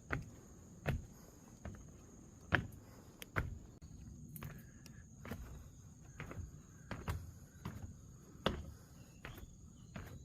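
Footsteps walking along a path at a steady pace, a bit more than one step a second, over a continuous high-pitched drone of insects.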